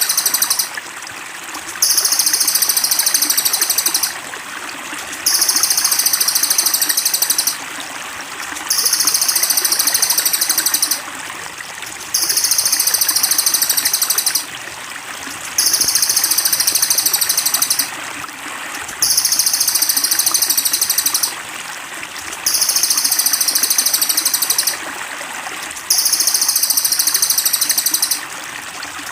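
Trickling, babbling water running steadily under a looped high-pitched trilling call. The call comes in bursts of about two seconds, repeating at even intervals roughly every three and a half seconds, as in a songbird-tutoring (masteran) track.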